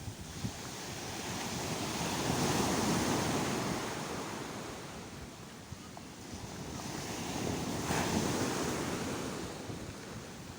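Sea waves washing onto the shore: two waves swell and break, the first peaking about three seconds in and the second about eight seconds in, each then drawing back.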